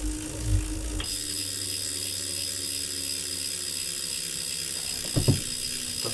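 Tacx NEO 2T smart trainer freewheeling after pedalling stops about a second in, running on with a steady rough, grinding-ratcheting hiss; this is the unsmooth wheel noise the owner is reporting as a fault. A couple of short knocks come about five seconds in and once more near the end.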